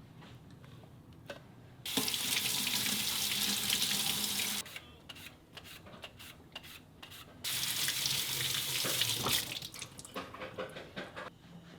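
Water tap running into a sink twice, once for about three seconds and again for about two, with light clicks and clatter in between.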